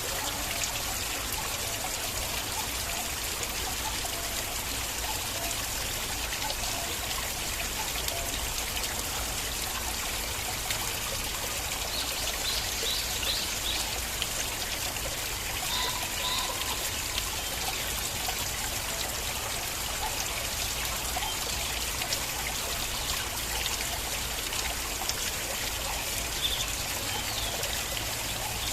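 Flowing stream water, trickling steadily without a break.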